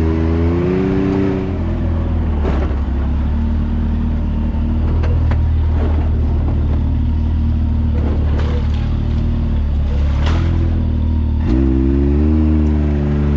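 Can-Am X3 side-by-side engine revving up briefly, then running at low revs as the machine crawls over the trail, with a few sharp knocks and clunks along the way. Near the end it revs up and then drops back again.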